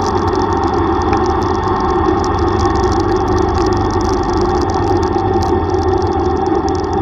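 Yamaha YTX125 tricycle's single-cylinder 125 cc engine running steadily.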